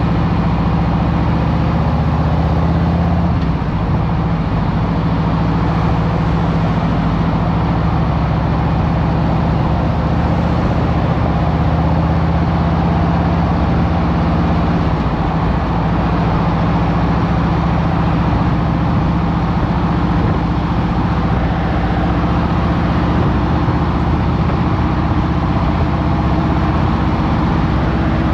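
2023 Harley-Davidson Road Glide Special's Milwaukee-Eight 114 V-twin, fitted with a Screaming Eagle Stage One air cleaner, running at a steady pitch, with a slight change about three and a half seconds in.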